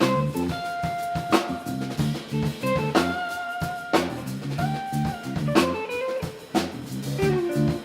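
Live band playing an instrumental passage: drum kit keeping a steady beat with hits about once a second, a walking bass line, and guitar holding long lead notes.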